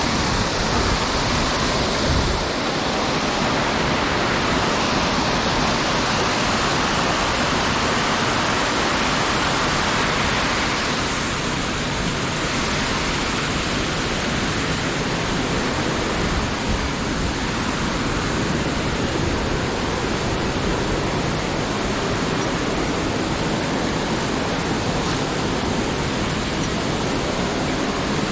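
Loud, steady rush of a waterfall in a mountain stream, close by, easing slightly about halfway through.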